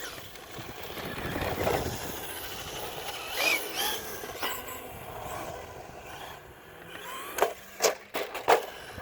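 Traxxas Rustler VXL RC truck running: its brushless motor whine and tyre noise, with four sharp knocks about a second before the end.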